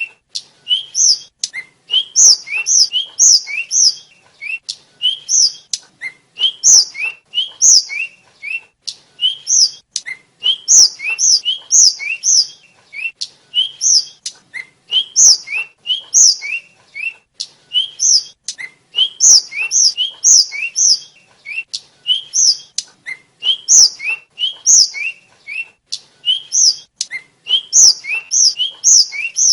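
Blue flycatcher (tledekan/sikatan) singing without pause: quick phrases of bright, clear whistled notes, many of them short upward glides, one phrase after another with brief gaps.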